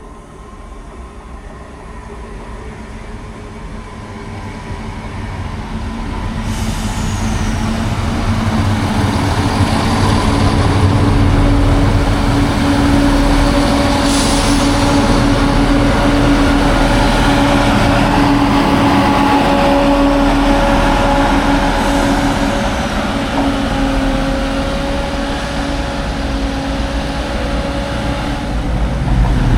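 A three-car diesel multiple unit train coming in, growing louder over about the first ten seconds, then its diesel engines running steadily with a constant hum.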